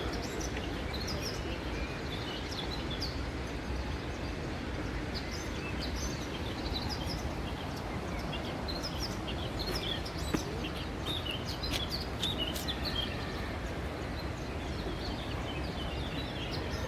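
Small birds chirping and calling over and over with short high notes, over a steady outdoor background rush.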